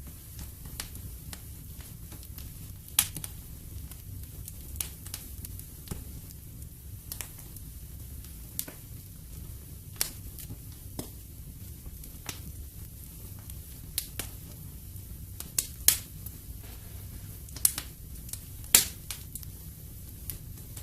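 Wood fire in a fireplace crackling: irregular sharp pops and snaps, a few of them loud, over a low steady rumble of the flames.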